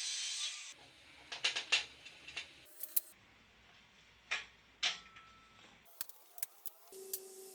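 Workshop handling noises: a rasping stroke of sawing or filing ends within the first second, followed by scattered sharp clicks and knocks of tools or metal parts being handled.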